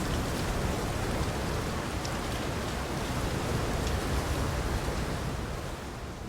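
Steady rain: a dense, even hiss with a few separate drop ticks. It starts to fade out near the end.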